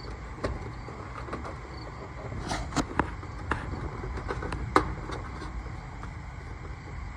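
Scattered light clicks and knocks of wires and small parts being handled and tucked into place in an air-conditioning unit's electrical compartment, over a steady low rumble.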